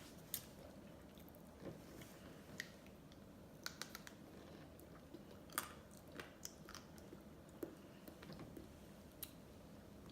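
Close-miked mouth sounds of a person eating ice cream: soft wet smacks and small clicks at irregular intervals, over a faint hiss.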